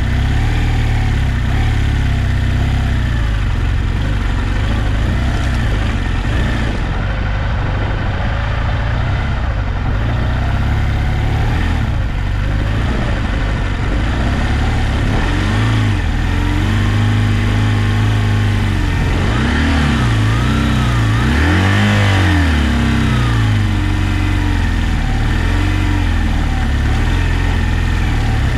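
Adventure motorcycle engine running under way, its pitch rising and falling with throttle and gear changes, with the quickest swings about two-thirds of the way through.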